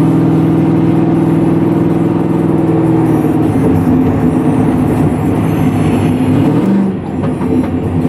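Loud engine note from the straight-piped supercharged V8 of a 2009 Cadillac CTS-V (headers to X-pipe to straight pipes, no mufflers). It holds a steady pitch for the first few seconds, then turns rougher and uneven, with a short dip in level near the end.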